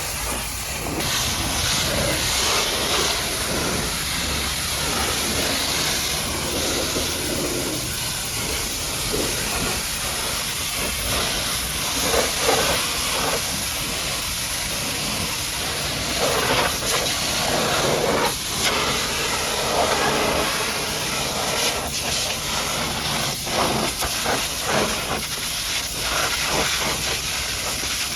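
High-pressure washer jet spraying a muddy truck: a steady loud hiss whose tone shifts as the spray moves over different surfaces.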